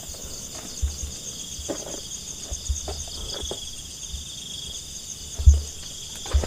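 Steady chorus of night insects such as crickets, a pulsing high chirring throughout. A few dull low thumps cut through it, the loudest a little past halfway.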